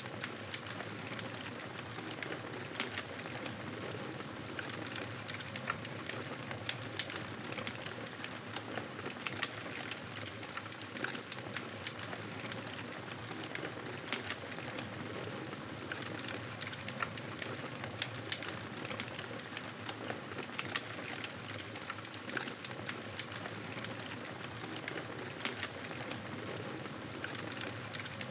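Wood campfire burning, with a steady hiss and many small crackles and pops throughout.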